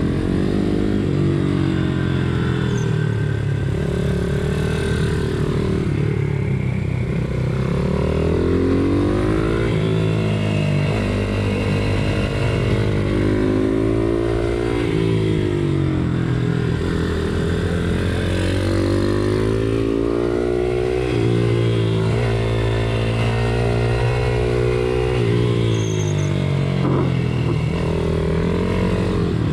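Pit bike engine running hard in a race, its pitch rising and falling over and over as the rider opens the throttle and backs off, with breaks in pitch at gear changes.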